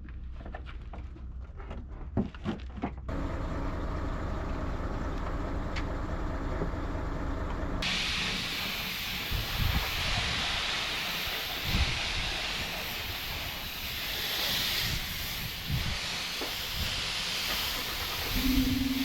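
A steady hiss, with a low mechanical hum underneath, in a vehicle repair workshop. A few clicks come first, the hum starts about three seconds in, and the hiss comes in strongly partway through and continues.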